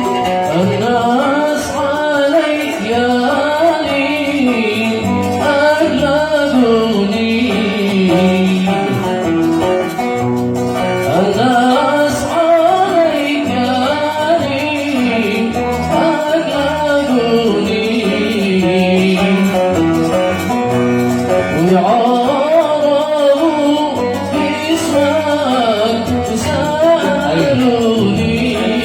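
A man singing a Yemeni Sanaani song in long, ornamented phrases, accompanied by a plucked oud.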